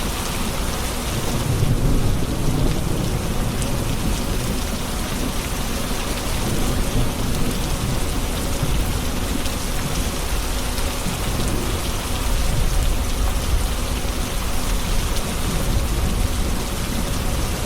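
Steady rain falling on hard surfaces, with low rolling thunder that swells about a second and a half in and again about two-thirds of the way through.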